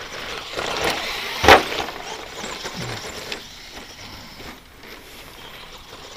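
Stock brushed ECX Circuit stadium truck running over a rough dirt track, with one sharp knock about a second and a half in, the loudest thing heard, as it lands or hits something. The running sound fades after about three seconds as the truck moves away.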